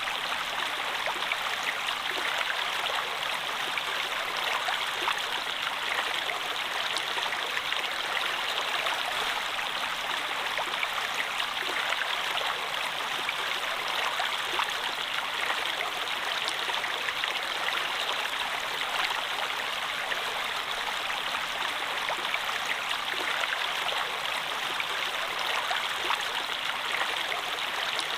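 Running water in a steady, even rush with small splashes and trickles throughout, like a brook flowing over stones.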